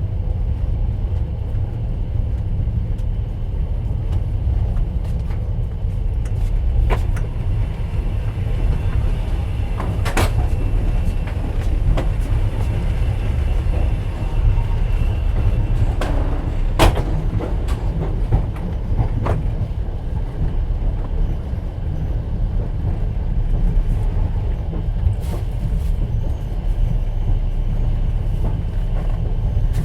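Steady low rumble of a moving passenger train heard from inside a platskart sleeper carriage, with occasional sharp knocks and clicks from the wheels and carriage.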